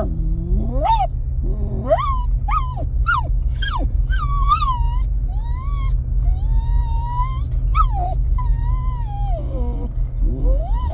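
Jack Russell terrier whining and yelping in high, sliding cries, a quick string of short ones followed by longer drawn-out whines, eager to get out of the truck. A steady low rumble from the truck runs underneath.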